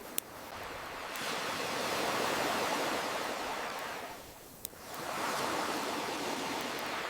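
Ocean waves washing in and drawing back in two slow swells, with a couple of sharp single crackles from a wood fire, one right at the start and one in the lull between the waves.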